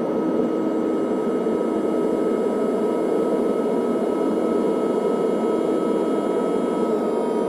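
Jet airliner engines running at steady high power, heard from inside the cabin as a constant rushing drone with a thin steady whine over it, as on a takeoff run or climb.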